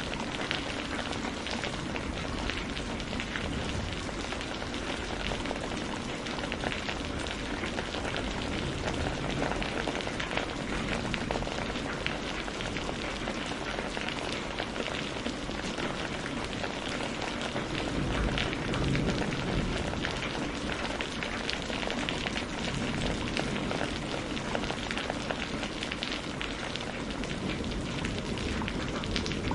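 Steady rain mixed with a burning wood fire: an even hiss of rain with many small crackles and pops from the burning logs.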